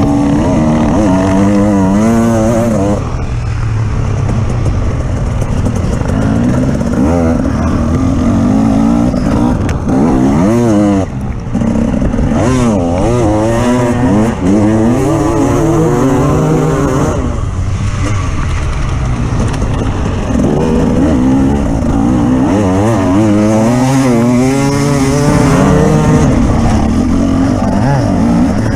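Engine of an off-road vehicle being driven hard, its revs rising and falling over and over, with a brief lift off the throttle about eleven seconds in.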